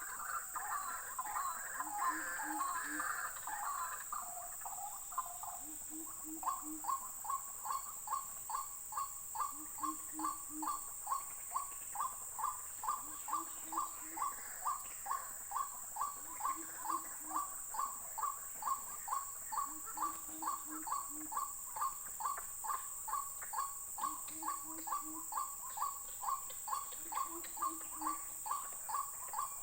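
White-breasted waterhens calling: a jumble of calls for the first few seconds, then a single bird's call repeated steadily about two to three times a second. Under it, a coucal gives short low hoots every three to four seconds, with insects buzzing steadily.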